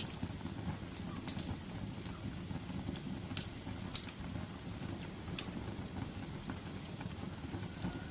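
Fire burning with a steady low rumble and scattered sharp crackles, about five pops spread over several seconds.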